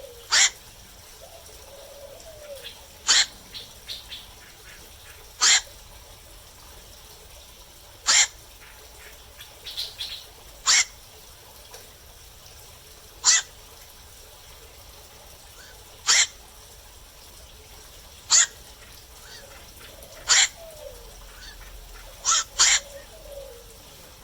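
Black-crowned night heron calling: short, sharp single calls repeated about every two and a half to three seconds, with a quick pair of calls near the end.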